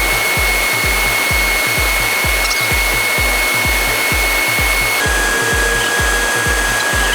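Small cooling fans of a homemade Peltier air cooler running with a steady rush of air and a thin whine, over background music with a steady low beat.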